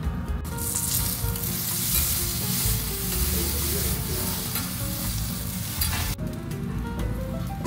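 Diced potatoes sizzling as they fry on a hot steel teppanyaki griddle, turned with metal spatulas as they crisp. The sizzle starts about half a second in and cuts off suddenly about six seconds in.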